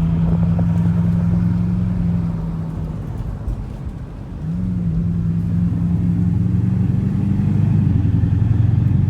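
Bugatti Chiron's quad-turbo W16 engine under way: a steady engine note that eases off about three seconds in, then picks up again with a slight rise in pitch about four and a half seconds in and builds steadily until it drops off near the end.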